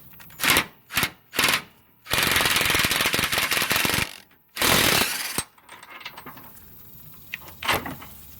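Impact wrench hammering on a subframe bolt to break it loose: three short blips, then a steady run of about two seconds, then another short burst.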